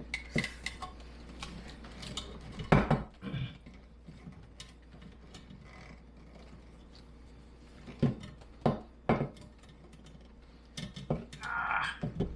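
Hand-work noise of plumbing parts being handled: scattered sharp knocks and clatter, the loudest about three seconds in, more around eight to nine seconds, and a brief scrape and a few knocks near the end.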